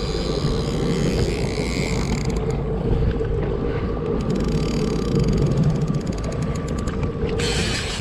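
Boat motor running steadily while a fishing reel's clicker ratchets rapidly for several seconds through the middle. A short burst of hiss comes near the end.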